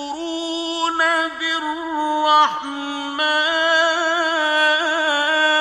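A man's voice reciting the Quran in the slow, melodic mujawwad style, drawing the word "yakfurūn" out over long, ornamented held notes, with a brief downward slide of pitch about halfway through.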